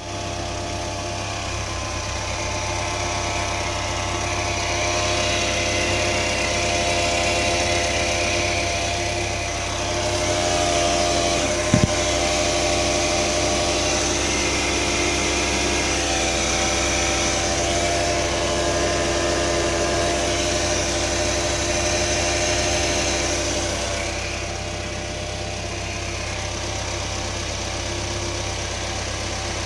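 SsangYong Kyron 2.3 four-cylinder petrol engine idling while warming up, with a steady hum of several tones over the idle. The owner cannot say what is causing the hum. A quick double click comes about twelve seconds in, and the hum eases somewhat near the end.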